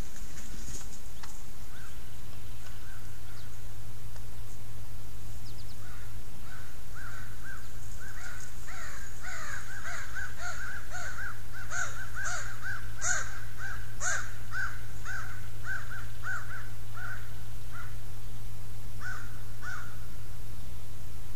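A bird calling in a long run of short repeated notes, two to three a second, sparse at first, then steady through the middle and tapering off near the end, over a steady low hum.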